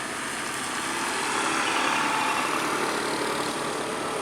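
Tow truck's engine running, growing louder toward the middle and then easing off slightly.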